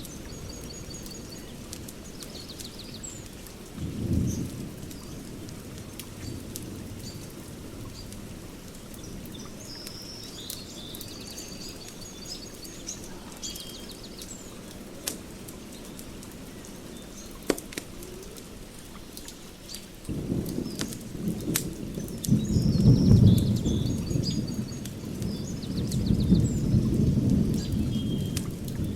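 Wood fire crackling, with scattered sharp pops, while birds chirp. A low rumble swells briefly about four seconds in, then returns louder and stays through the last third.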